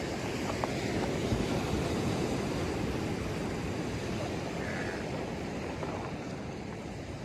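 Ocean surf washing against the shore and sea wall, a steady rush that swells in the first seconds and eases off near the end, with wind on the microphone.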